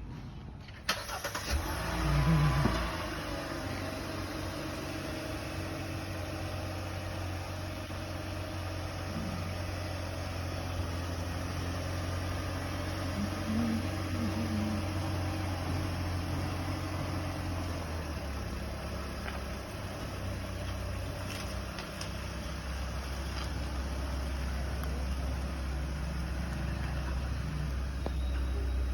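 Kia Seltos engine starting: a short crank about a second in, catching with a brief rise in revs, then settling into a steady idle whose pitch steps slightly lower a little past halfway.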